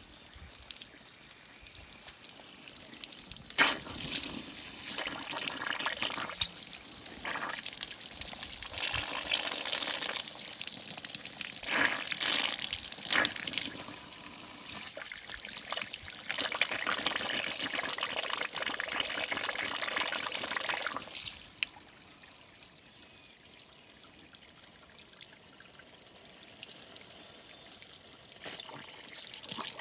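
Water from a garden hose pouring and splashing into an irrigation pump to prime it and force the air out. The pour rises and falls in strength, then settles to a quieter trickle about two-thirds of the way through.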